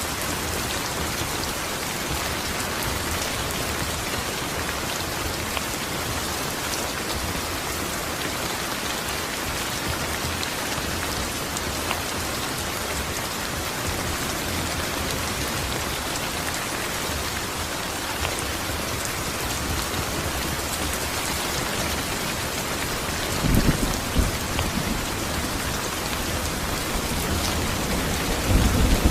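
Steady rain falling, an even hiss of drops. A low rumble of thunder comes about three-quarters of the way through, and another begins near the end.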